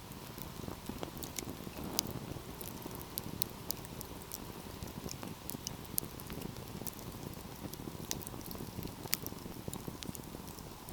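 Wood fire burning: a steady low rush with scattered sharp crackles and pops from the burning logs. A louder pop comes about two seconds in and another near the end.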